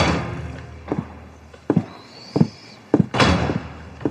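A thud like a door shutting, then evenly paced footsteps, about one and a half steps a second, with a louder knock-like noise about three seconds in.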